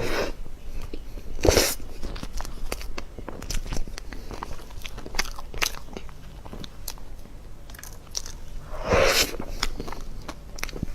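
Close-miked eating: a person biting and chewing a dessert, with many small wet mouth clicks and two louder bites, one about a second and a half in and one near nine seconds.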